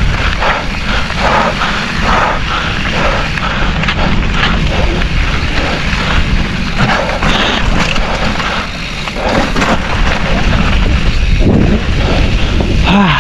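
Mountain bike rolling over a rough dirt trail: wind buffeting the microphone in a steady low rumble, with the bike's chain and frame clattering in many short rattles over the bumps.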